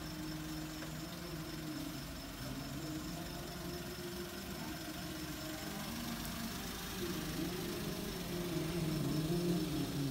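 Suzuki Wagon R's engine idling steadily, a low hum that grows somewhat louder in the second half.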